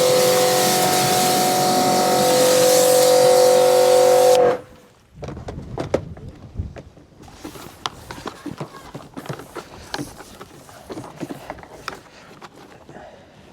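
Pressure washer running and spraying with a steady whine and hiss, cutting off abruptly about four and a half seconds in; after it, scattered light clicks and knocks.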